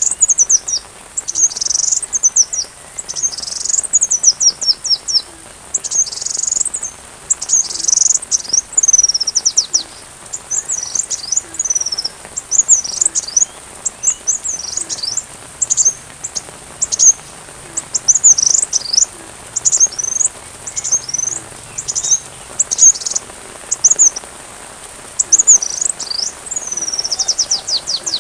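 Sunbird song: rapid, high-pitched chirps and quick runs of sharp descending notes in tight phrases, one after another, over a faint steady patter of rain.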